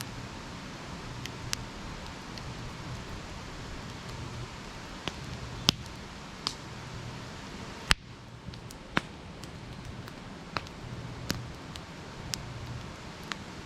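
Wood campfire crackling: irregular sharp pops and snaps over a steady low hiss, two of them louder, about six and eight seconds in.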